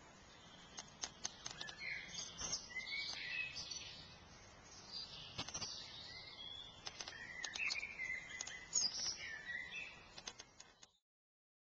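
Garden birds chirping and singing faintly, with short rising and falling notes coming in repeated bursts over a quiet outdoor hush; the sound cuts off suddenly near the end.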